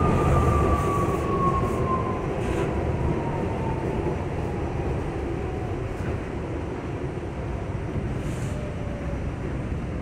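R68 subway car running along the track with a steady rumble, and a whine that falls in pitch and fades over the first few seconds as the train slows.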